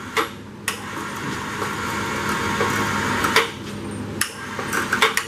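Hoist lifting a 1931 Ford Model A engine out of the car: a steady mechanical whir for about three seconds, with sharp metal clunks before, at the end of and after it.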